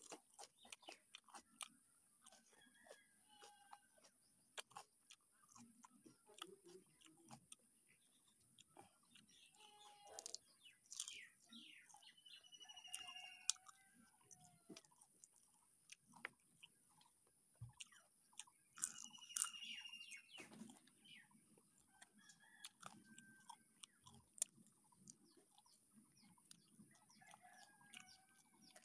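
Faint close-up chewing and crunching on a fried chicken leg, with many small wet mouth clicks, while chickens cluck now and then in the background.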